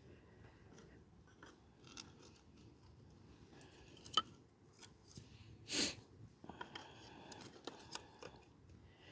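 Faint crackling and popping of fatwood catching fire from a strikable fire starter, with a sharp snap about four seconds in and a cluster of small crackles toward the end.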